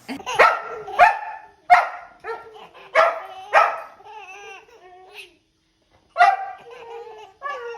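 A dog barking, a run of sharp barks with a pause of about a second before a last one near the end.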